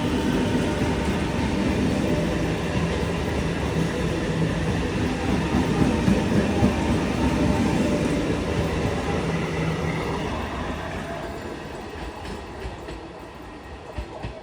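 Electric multiple unit (EMU) local train passing at speed: a steady rumble with wheels clacking over rail joints, loudest around the middle, then fading away over the last few seconds.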